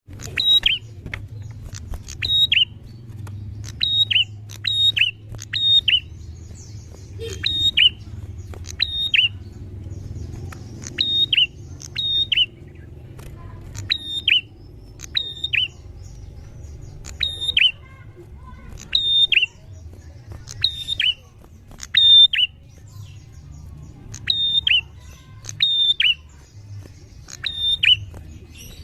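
Prinia (prenjak) calling: short, sharp, high doubled notes that slide down slightly, repeated irregularly about every one to two seconds over a steady low hum.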